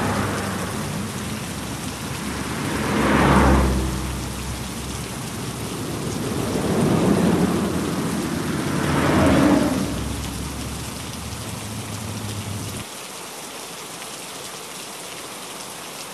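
Heavy rain falling steadily, with four rushing swells that rise and fall over a second or two each. A low steady hum underneath stops abruptly about three-quarters of the way through.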